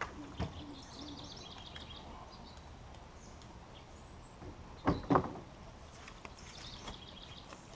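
Small birds chirping in the background in quick high trills, with two sharp knocks about five seconds in.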